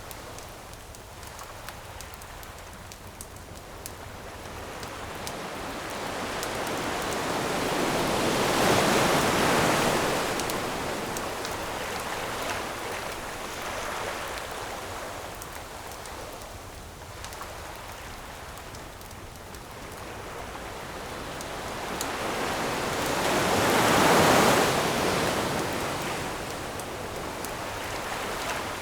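Ocean waves breaking on a shore, the surf swelling to two big washes about fifteen seconds apart, about a third of the way in and again near the end. A campfire crackles underneath with scattered small pops.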